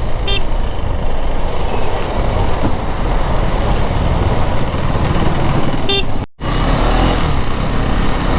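KTM Duke 390 motorcycle riding in traffic: a steady, loud low rumble of engine and road noise, with a short horn toot just after the start and another about six seconds in. The sound drops out briefly a little after six seconds.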